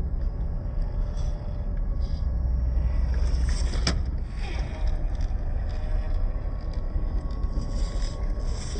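Small electric motor and gears of a WPL C24 1/16-scale RC crawler truck whining faintly while the truck scrapes and ticks over rock, with one sharp click about four seconds in. A steady low rumble runs underneath.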